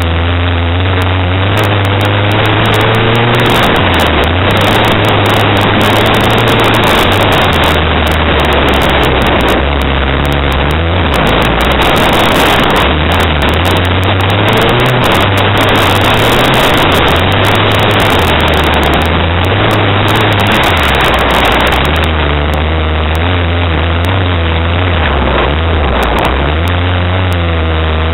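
Honda Prelude's four-cylinder engine racing on a dirt track, its pitch climbing and dropping back again and again as the driver accelerates and lifts. A loud rushing noise sits over the engine throughout, heard from a camera on the car's roof.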